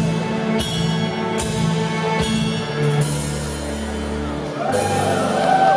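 Live band playing sustained chords, with a sharp drum or cymbal accent about every 0.8 s and a low held bass note in the middle. A held, bending voice line comes in over the band near the end.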